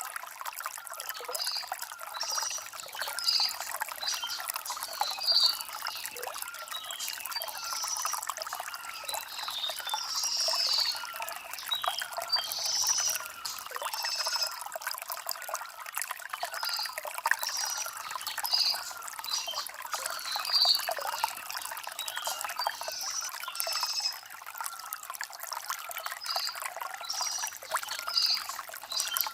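Shallow stream trickling and gurgling over river stones, a steady babble full of small splashes.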